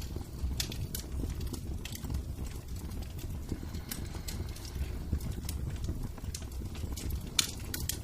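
Wood fire in a fireplace crackling, with irregular sharp pops over a steady low rumble; the loudest pop comes near the end.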